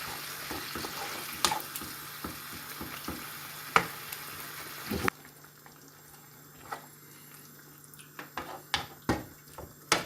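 Chicken and tomato curry sizzling in a frying pan as it is stirred, with a few clicks of the utensil against the pan. About halfway the sizzle cuts off abruptly, leaving a quieter stretch with scattered clicks and knocks.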